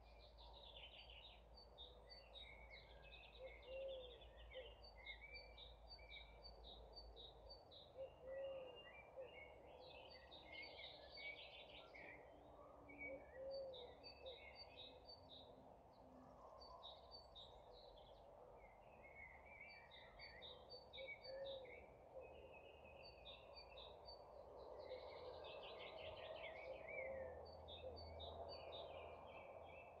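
Faint evening birdsong: several songbirds sing short, quickly repeated chirping phrases, and a lower call comes again every four or five seconds, over a steady soft hiss.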